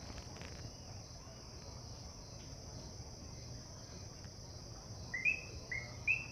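Steady high-pitched trilling of a frog chorus, a sound easily taken for insects. About five seconds in, loud short chirping calls start, roughly two a second.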